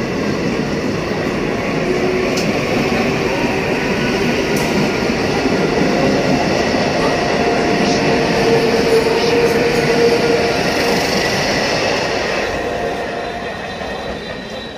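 A 12-coach ICF electric multiple-unit local train running past close by, a steady rumble of wheels and coaches with a thin steady whine. It fades out over the last couple of seconds as the final coach goes by.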